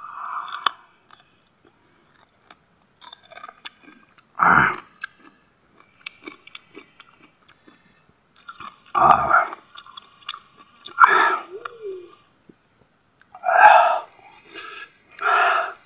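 A person biting and chewing crunchy green mango slices topped with a spicy chili mix: small crisp crunches, broken by about six short, loud breathy mouth sounds.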